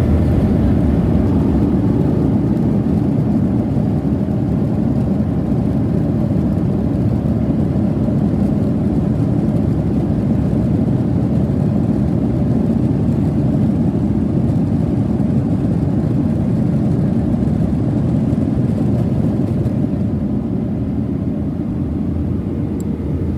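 Cabin noise inside a Boeing 737-800: a steady, loud rumble of its CFM56 jet engines and airflow. It eases off slightly near the end.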